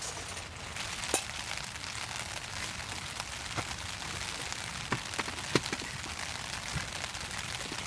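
Steady rain falling, an even hiss with scattered sharp pops and ticks, the loudest about a second in.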